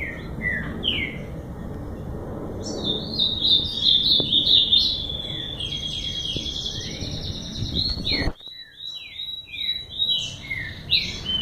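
A songbird singing: short down-slurred chirps, then a fast, continuous warbling run of high notes lasting several seconds, then more short down-slurred notes. The low background noise drops out abruptly about eight seconds in.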